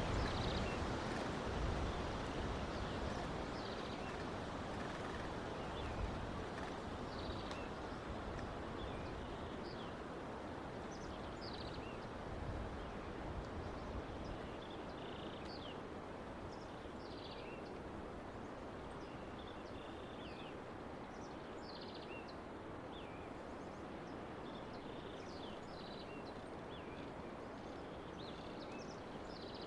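Outdoor ambience: a steady rushing background noise that eases off over the first half, with small birds chirping briefly and irregularly throughout.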